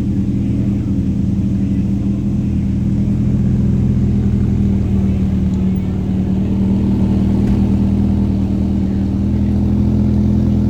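Car engine running steadily, its pitch shifting up and down slightly a few times.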